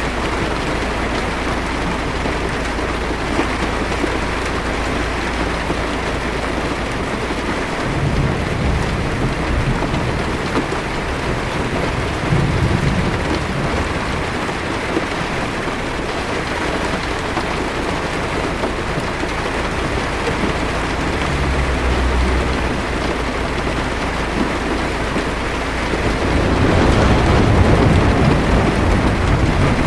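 Heavy rain pattering steadily on a car's roof and windshield, heard from inside the car, with low rumbles of distant thunder several times; the loudest rumble comes near the end.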